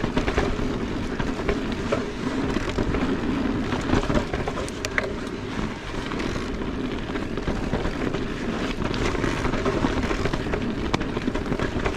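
Electric mountain bike ridden along a dirt singletrack trail: a steady rush of tyre and wind noise, with scattered sharp clicks and rattles.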